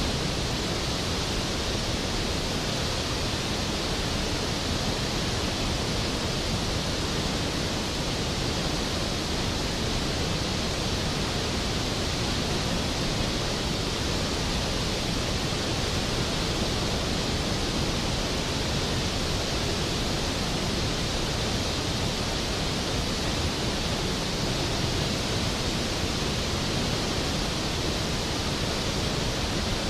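Skógafoss, a large waterfall, with its water falling and crashing in a steady, even roar of noise.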